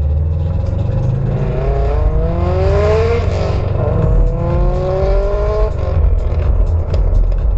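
A car accelerating hard, its engine note rising, dropping at a gear change about three seconds in, then rising again before it fades, over a steady low exhaust rumble.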